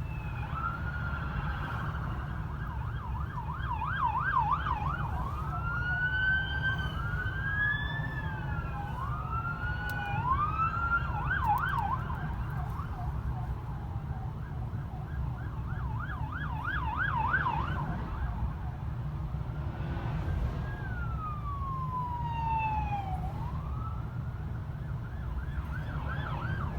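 Police car sirens switching between a slow rising-and-falling wail and a fast yelp, at times two sirens overlapping, over a steady low rumble of engine and road noise.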